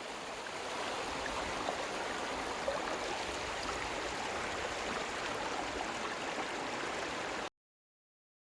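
A mountain creek running over rocks: a steady rushing of water that cuts off abruptly about a second before the end.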